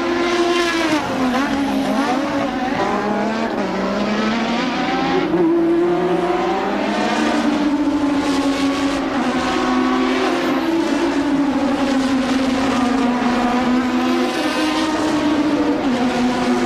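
1988-era Formula One race car engine at high revs, its pitch climbing and dropping repeatedly with gear changes and throttle through the corners.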